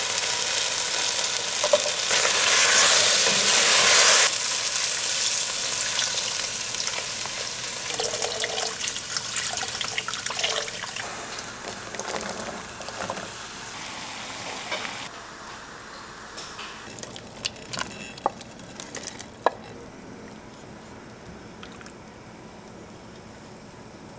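Chicken pieces and carrots sizzling in a Dutch oven, loudest in the first four seconds, then a fading hiss of cooking with a few sharp clicks in the middle and quieter simmering near the end.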